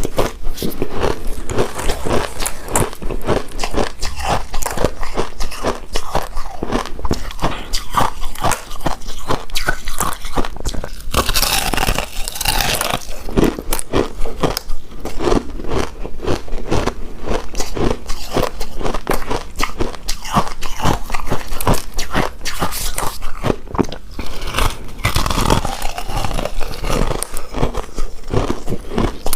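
Close-miked eating sounds: biting into and chewing a soft, chewy rice cake coated in shredded coconut, with many small irregular mouth clicks. There is a louder, noisier stretch about eleven seconds in.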